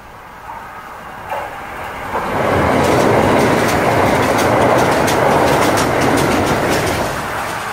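Kintetsu limited express electric train passing close by on a steel girder bridge: a rising rumble as it approaches, then loud running noise with rapid clickety-clack of wheels over rail joints, easing off near the end.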